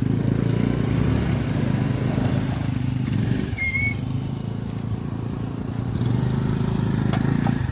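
Motorcycle engine running steadily, with a short high chirp about three and a half seconds in.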